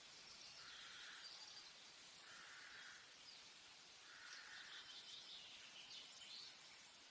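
Faint forest ambience: birds calling over a steady high hiss, with one call repeated three times, about a second and a half apart, in the first five seconds.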